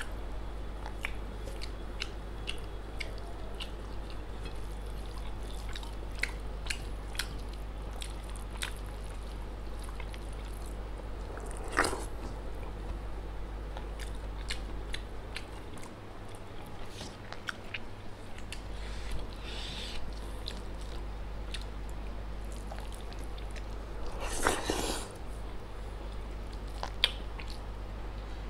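Close-miked eating: a person chewing mouthfuls of rice, dal and fried pork, with many small wet mouth clicks over a steady low hum. A louder noisy burst comes about halfway through, and a longer one later on.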